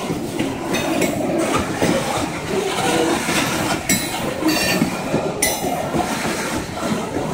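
Covered hopper cars of a freight train rolling past: a steady rumble of steel wheels on rail, with a run of clicks and knocks as the wheels cross the joints.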